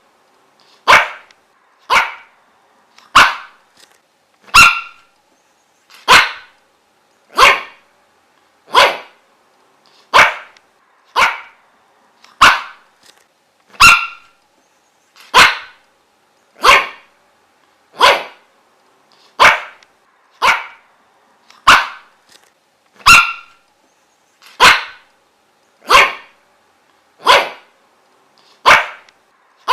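A dog barking over and over: single sharp barks at a steady, even pace of about one every second and a half.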